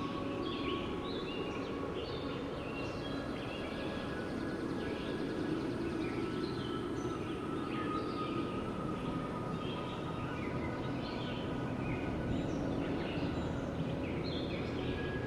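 Steady wind noise with many small birds chirping over it throughout.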